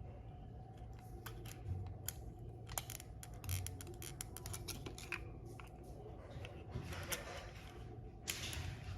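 Irregular small, sharp clicks and taps of hands working on the plastic parts of an open computer mouse, with brief rustling near the end.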